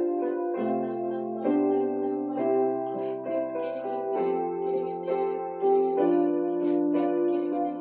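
Slow, soft instrumental piano music with sustained chords that change every second or two. A light high tick keeps a slow, even beat.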